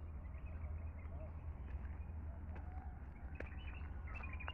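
Faint bird chirps over a steady low rumble, with a few light clicks.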